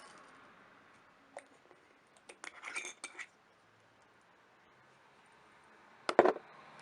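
Light clicks and clinks of small hard objects being handled, then a louder sharp knock near the end.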